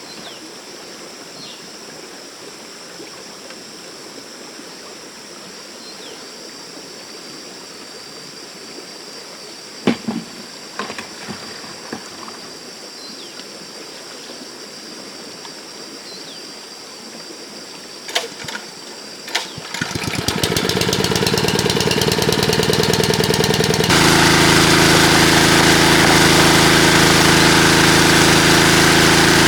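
Running stream water with a faint steady high tone and a few short knocks. About two-thirds of the way in, a small engine starts up and runs steadily, getting louder a few seconds later.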